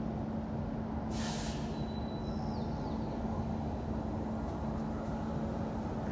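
Steady city street traffic noise with a constant low hum. About a second in comes a short sharp hiss, followed by a faint high squeal that dips in pitch.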